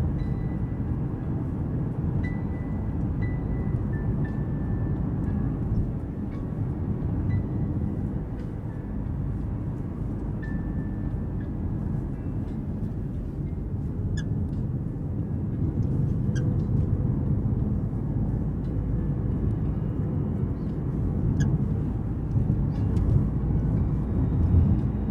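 Mazda CX-5 cabin noise on the move, a steady low rumble, with short faint squeaks and sharp clicks now and then from behind the rear seat, clustered in the second half.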